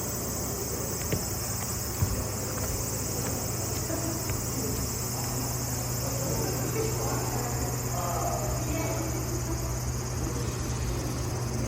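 Cicadas singing in a loud, steady chorus, a continuous high-pitched drone.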